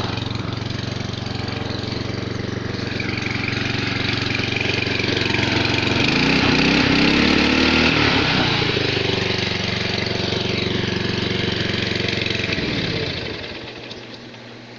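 Walk-behind lawn mower's 149 cc engine running steadily with its blade engaged, louder for a few seconds in the middle, then winding down in pitch and stopping about 13 seconds in.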